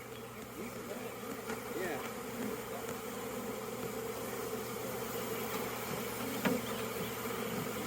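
A swarm of honeybees buzzing: a steady drone of many bees in the air, with single bees' wingbeat tones wavering up and down in pitch as they fly close past.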